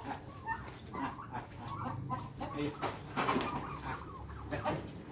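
Domestic turkeys clucking and calling in many short, quick notes.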